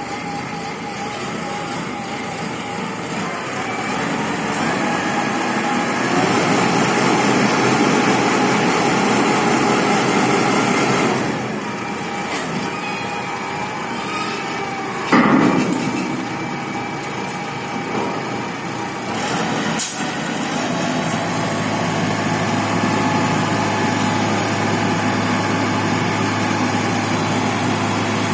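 Self-loading concrete mixer truck's engine running, louder for several seconds about a quarter of the way in, with a short loud burst about halfway and a sharp click a few seconds later, then settling to a steady idle.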